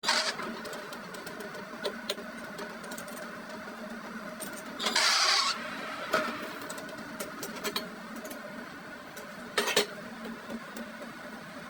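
A workshop machine running with a steady hum. There is a short hiss about five seconds in, a briefer one near ten seconds, and scattered clicks and taps.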